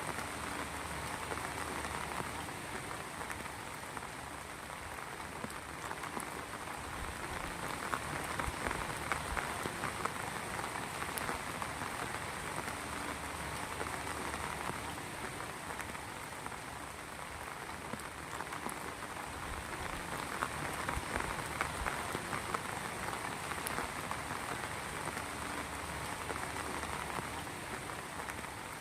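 Steady rain falling on a surface, a dense even patter of drops that swells and eases a little over time.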